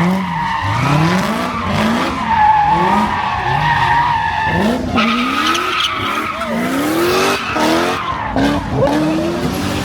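Car engine revved hard over and over in rising sweeps about once a second, with tyres squealing continuously, as in a burnout or donuts.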